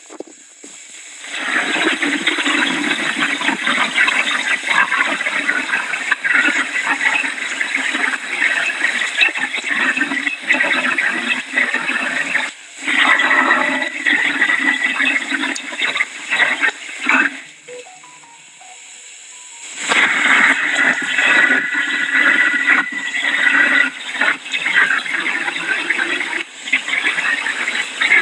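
Hurricane wind and heavy rain, a loud rushing that rises and falls in gusts, with a brief lull about halfway through and a longer one of about two seconds later on.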